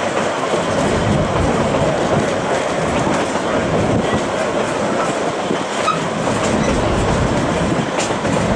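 Cumbres & Toltec narrow-gauge passenger train rolling along the track, a steady rumble and clatter of wheels and cars.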